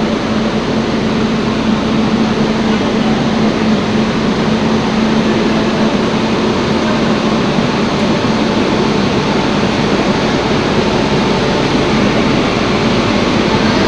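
Freight train running with a steady, loud noise and a steady low hum.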